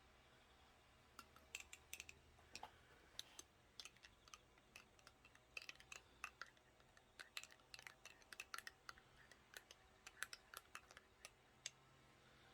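Faint, irregular sharp clicks and crackles, dozens of them, starting about a second in and stopping shortly before the end.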